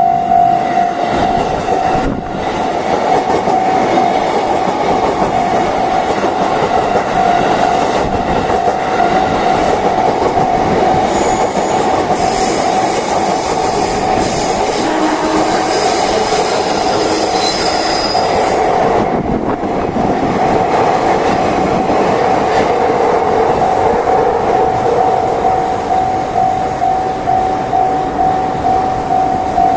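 JR East E233-series Saikyo Line electric train passing over a level crossing. A Japanese crossing alarm sounds a steady repeating tone throughout, and the wheels squeal with high-pitched notes about midway through the pass.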